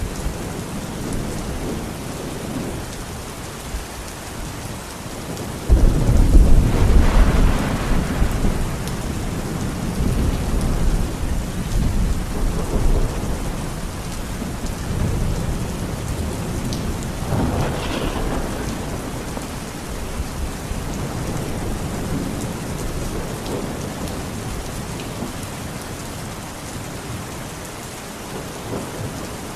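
Steady rainfall in a forest thunderstorm. A sudden loud thunderclap comes about six seconds in and rumbles on for a few seconds. A second, softer roll of thunder follows about twelve seconds later.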